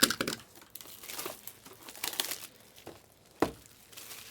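Plastic trading-card packaging being torn open and crinkled in irregular rustling bursts. There is a sharp snap at the start and another about three and a half seconds in.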